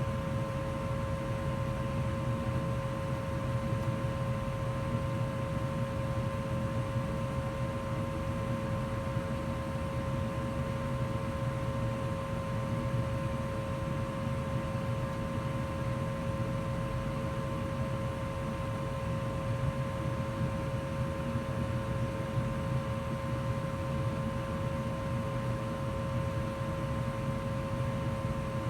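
2004 Goodman gas furnace running steadily in heat mode: an even rumble of air with a constant hum-like tone over it.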